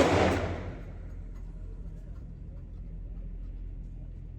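The echoing tail of a handgun shot fired just before, dying away within the first second. After it comes a steady low hum with a few faint clicks.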